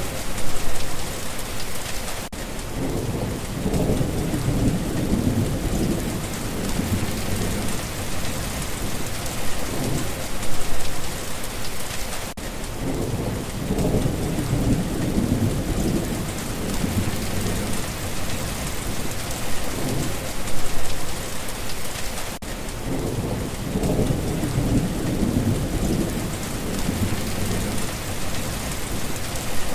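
Steady heavy rain falling on a surface, with low rolls of thunder rumbling about every ten seconds. The same stretch of rain and thunder repeats about every ten seconds, like a loop.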